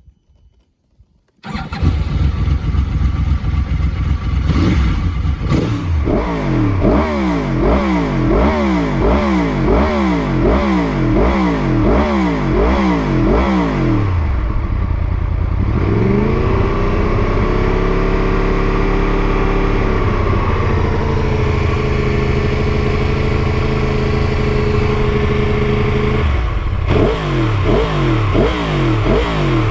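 Yamaha YZF-R1 inline-four sport-bike engine through an Akrapovic exhaust, starting up about one and a half seconds in and then revved in quick throttle blips, about two a second. Partway through it is held at a steady raised rpm for several seconds, then dropped back into quick blips near the end.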